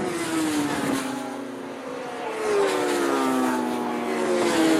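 Several large-capacity racing motorcycle engines passing at speed. Their notes slide down in pitch as they go by: one fades about a second in, then a group passes, louder, from about two and a half seconds.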